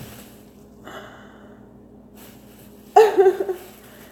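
A woman's short, breathy vocal sound about three seconds in, after a faint breath about a second in.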